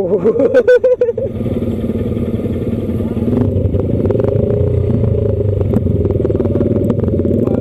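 Motorcycle engine running, wavering and uneven for about the first second, then holding a steady note.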